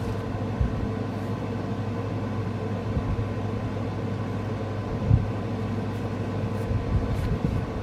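Steady low hum and hiss with a few soft knocks, the clearest about five seconds in.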